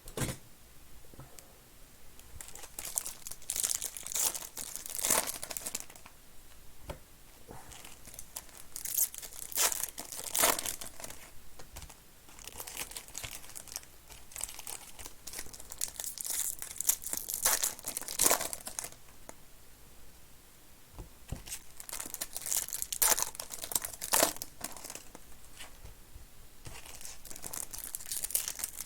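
Trading card pack wrappers being torn open and crinkled by hand, in irregular bursts of crackling that come and go throughout.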